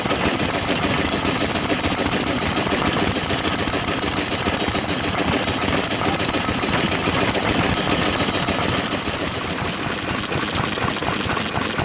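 Vintage Japanese stationary farm engine (hatsudōki) running steadily at idle, its firing strokes coming in a fast, even chug.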